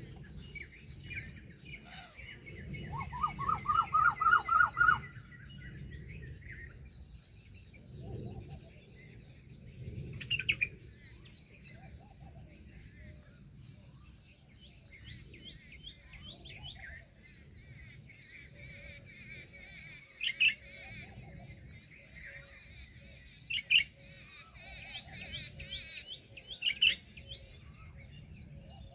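Several birds chirping and calling. About three seconds in, one gives a loud, rapid run of short rising notes lasting about two seconds, and sharp louder chirps break in now and then.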